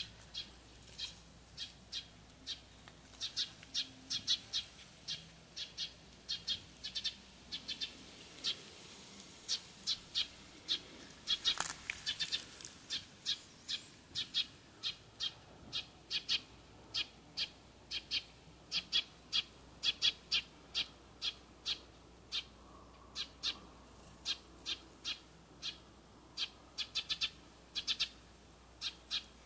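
Small birds chirping: short, high chirps repeated irregularly, sometimes several a second, with one longer, louder call about halfway through.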